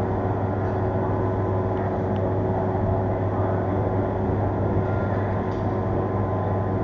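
Steady running noise of a vehicle on the move, with a constant low hum and no changes or knocks.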